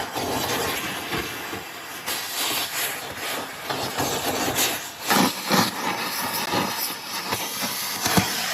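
Steady hissing noise from work on an excavator boom joint, broken by scattered metallic knocks, with a louder cluster about five seconds in and a sharp hit near the end.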